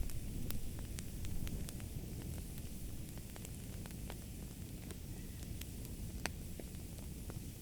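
Fire burning in a fireplace: a steady low rumble of flames with sharp crackles and pops scattered irregularly, a few each second.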